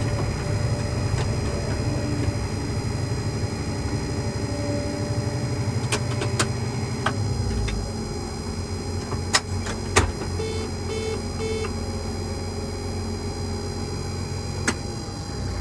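Combine engine running steadily while the machine is put away, with several sharp clicks and knocks and three short beeps about two-thirds through.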